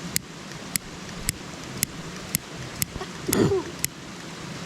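A lighter being clicked over and over, about twice a second, without catching, over the steady rush of a waterfall. A short vocal grunt comes about three seconds in.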